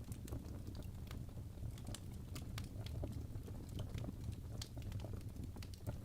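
Wood fire burning in a fireplace, crackling with frequent irregular pops and snaps over a low, steady rumble of the flames.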